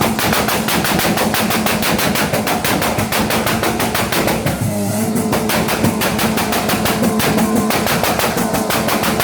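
Car engine held at high revs on a two-step launch limiter, firing a fast, even string of pops and bangs, about eight a second. The rev drops briefly just before halfway, then climbs back up.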